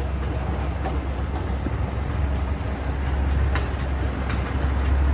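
Backhoe's diesel engine running steadily, a deep continuous rumble, with a few light clicks or knocks from the machine.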